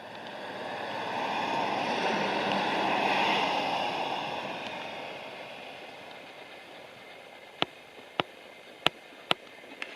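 Something passing by, heard as a rushing noise that swells to a peak about three seconds in and fades away, followed by four sharp clicks near the end.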